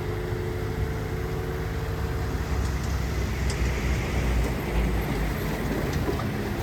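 Heavy diesel earthmoving machinery running steadily, a low engine rumble with a faint steady whine over it that fades out about halfway through.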